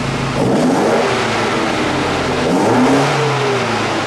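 Alfa Romeo Duetto twin-cam four-cylinder engine on twin Weber carburettors, revved twice from idle and let fall back. The throttle is being blipped while the carburettors are tuned.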